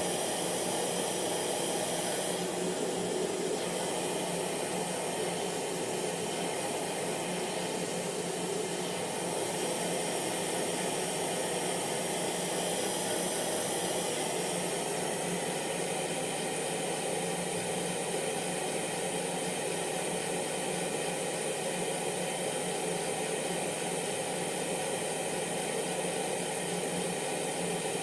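Hair dryer running steadily: an even blowing hiss with a faint constant motor hum.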